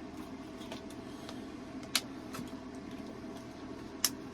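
Steady low background hum with scattered faint ticks and two sharp clicks about two seconds apart, the second near the end.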